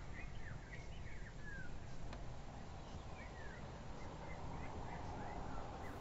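Small birds chirping in short repeated calls over a steady low hum of outdoor background noise.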